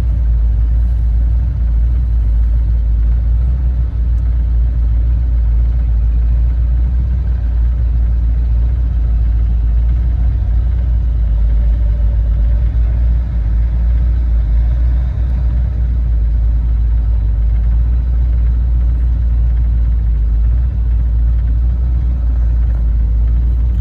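Diesel engine of heavy logging equipment running steadily, a deep constant rumble with no breaks.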